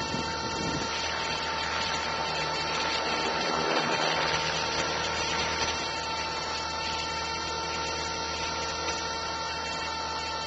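Align T-Rex 450 SE V2 electric RC helicopter in flight, heard from a camera mounted in its own canopy. A steady high whine from the brushless motor and gear train sits over the rushing noise of the spinning rotor blades, with a slight swell a few seconds in.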